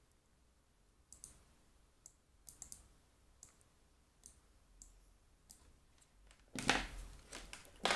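Light, irregular clicks and handling noise as an audio cable's plug is worked into a headphone jack, with a louder clatter about six and a half seconds in. No buzz comes from the speakers.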